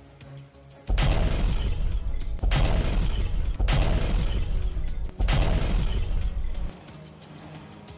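Cartoon sound effects: four loud crashing noises in a row, each starting suddenly and lasting over a second, heavy in the bass, over background music.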